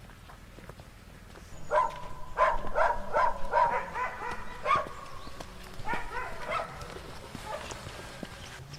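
An animal giving a run of short, pitched calls, about two to three a second, starting about two seconds in, with a second, shorter run past the middle.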